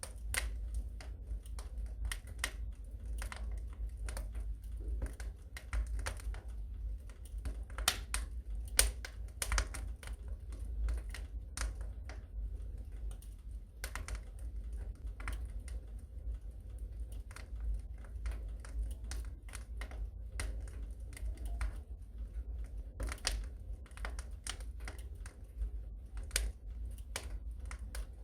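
Fire burning in a fireplace, crackling: irregular sharp pops and snaps over a steady low rumble.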